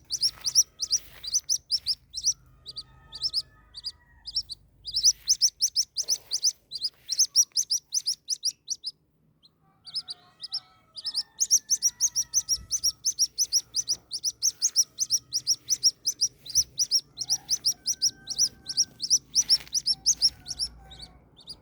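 White-breasted waterhen chick peeping: rapid runs of short, high, thin cheeps, broken by a pause of about a second around the middle.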